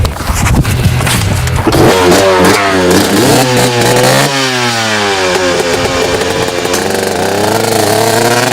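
Dirt bike engine running and being revved, its pitch climbing and dropping several times, after a rougher, clattering couple of seconds at the start.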